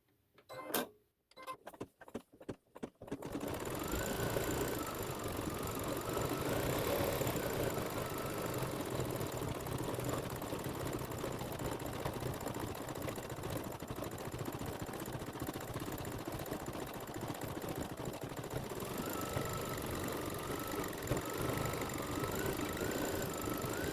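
A few clicks, then about three seconds in a computerized embroidery machine starts stitching and runs steadily, its motor whine stepping up and down in pitch as it sews out a colour section.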